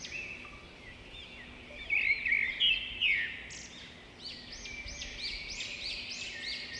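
Small birds chirping and twittering: scattered high calls about two seconds in, then a quick run of repeated rising-and-falling notes through the second half.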